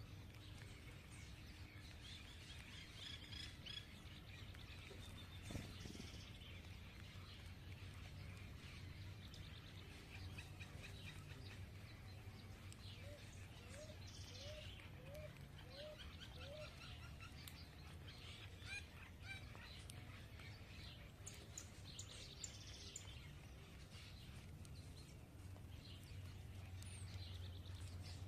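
Birds chirping faintly, with many small high calls scattered throughout and a run of five short, lower rising calls about halfway through, over a steady low background hum.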